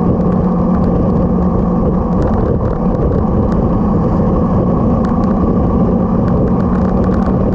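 Motorcycle riding at a steady speed: the engine holds one even note under a constant rush of wind and road noise.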